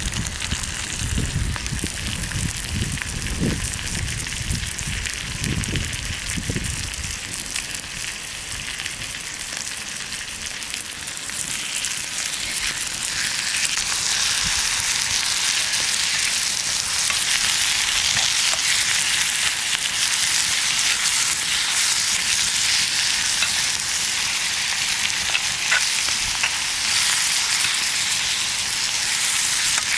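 Food frying in a pan over a campfire, a steady sizzle that grows louder about a dozen seconds in and stays strong. A low rumble sits under it in the first several seconds.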